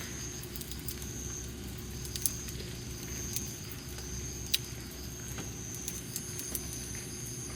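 Campfire burning, its wood crackling with scattered small clicks and two sharper pops, about two and four and a half seconds in, over a low steady rumble.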